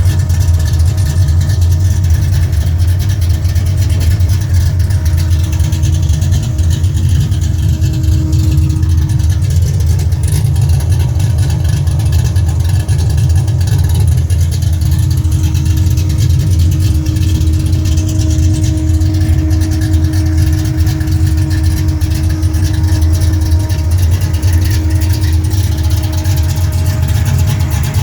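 LS1 V8 with an aftermarket camshaft in a third-generation Camaro, idling steadily through a true dual exhaust with a deep, low exhaust note.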